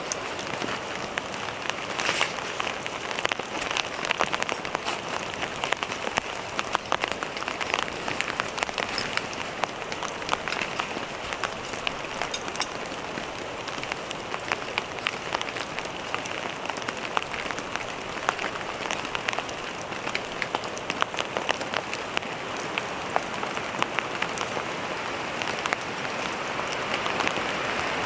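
Steady rain falling, with many individual drops ticking sharply and irregularly close by.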